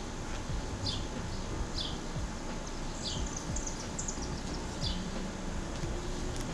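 A bird chirping repeatedly: short, high chirps that slide downward, about one a second, with a quick run of higher chirps midway, over a steady low rumble of outdoor background noise.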